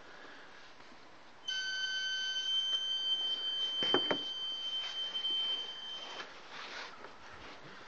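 High-pitched steady whine from the engine of a 2012 BMW 535 with the engine shut off. It starts suddenly about a second and a half in and cuts off about six seconds in, with a couple of clicks near its middle.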